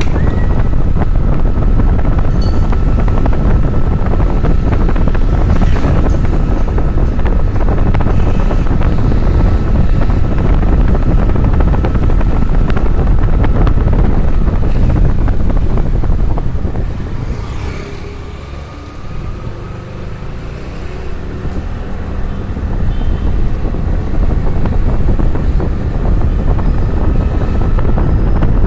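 Heavy wind buffeting the microphone while riding a motorbike, with engine and road noise underneath. It eases for a few seconds past the middle, then builds again.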